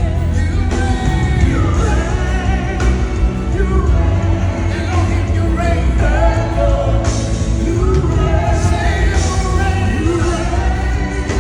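Live worship music: singing over a full band, with heavy bass.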